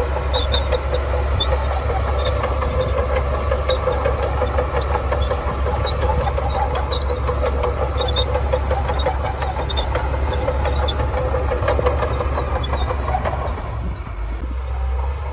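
Shantui DH17C2 crawler bulldozer working, its engine running steadily with scattered light metallic clicks. The sound drops and changes character near the end.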